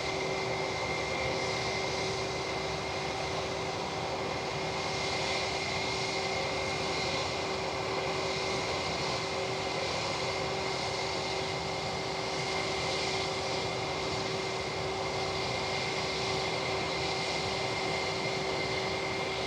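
Steady jet engine whine from aircraft idling on the ground, two constant tones over a continuous rushing noise at an even level.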